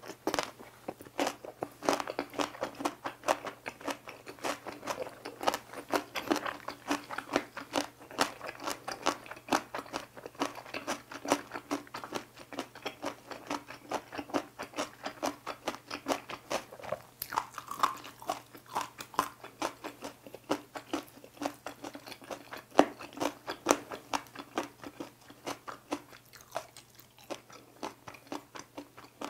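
Close-miked chewing and crunching of a mouthful of cucumber kimbap topped with seasoned dried radish strips, in quick, steady crunches.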